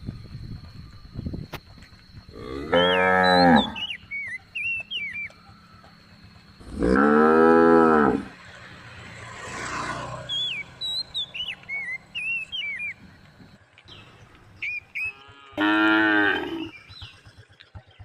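Cattle mooing: three loud moos about a second long each, a few seconds apart, each rising then falling in pitch. Faint chirps can be heard between the moos.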